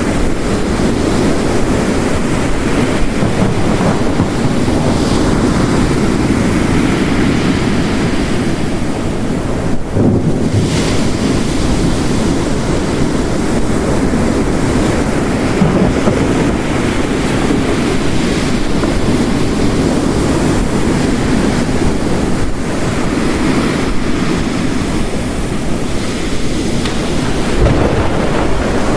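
Ocean waves crashing on a rocky coast, layered with heavy rain, making a steady, dense rushing that swells and eases slightly.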